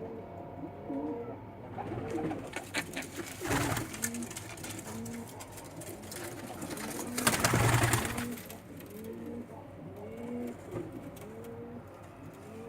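Several pigeons cooing steadily, their calls overlapping throughout. A louder rustling noise comes twice, briefly about two seconds in and most loudly about seven seconds in.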